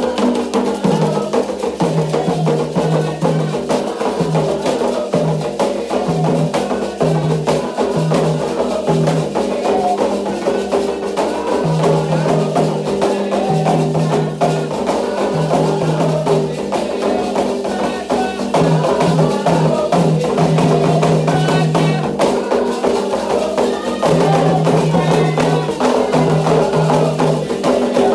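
Candomblé percussion playing a toque for Ogum: atabaque hand drums beating a fast, driving rhythm with a struck bell or clapper ticking along on top.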